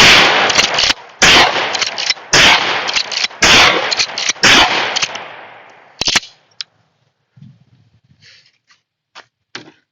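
Five shots from a Remington TAC-14 12-gauge pump-action firing nine-pellet 00 buckshot, about one a second, each with a heavy muzzle report. The last shot's echo fades over about a second, followed by a couple of sharp metallic clicks.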